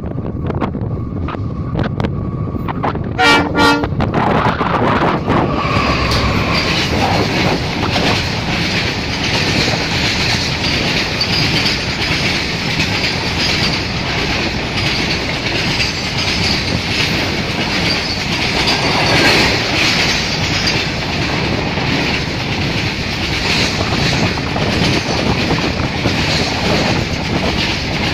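Indian Railways WDG4 diesel freight locomotive sounding two short horn blasts about three seconds in as it passes. It is followed by a long rake of BCNA covered wagons clattering steadily over the rail joints.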